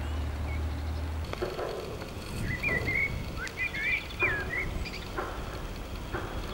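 A small bird singing a quick run of wavering, whistled notes lasting about two seconds, with a few faint chirps around it. A steady low rumble stops about a second in.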